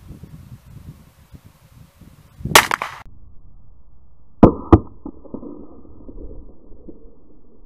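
Swedish Nagant m/1887 revolver firing: one sharp shot about two and a half seconds in, then two more in quick succession a couple of seconds later, each followed by an echo.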